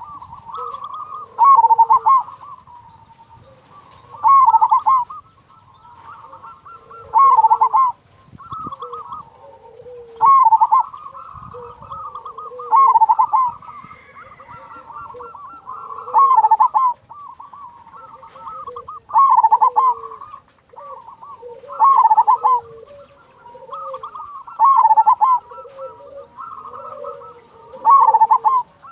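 Zebra doves (perkutut) cooing: a loud, crisp call phrase repeats about every three seconds, ten times. Softer, lower coos from other doves fill the gaps.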